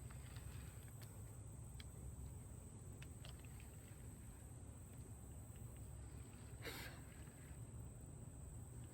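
Quiet ambience from a small boat on a pond: a low rumble of wind on the microphone, a steady thin high hum, a few faint ticks, and one brief whoosh about seven seconds in.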